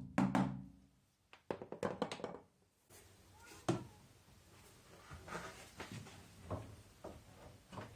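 Knocks and thunks of washing-machine parts being tapped and fitted into place during reassembly: a quick run of knocks at the start, a cluster of clicks and knocks about two seconds in, then scattered single thunks.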